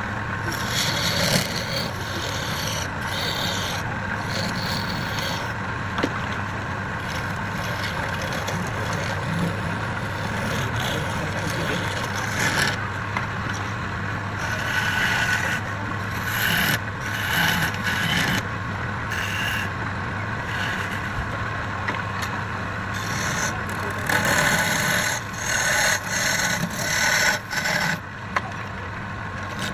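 Wood lathe running with a steady hum while a tool scrapes against the spinning wood in repeated spells, louder and more broken up in the last few seconds.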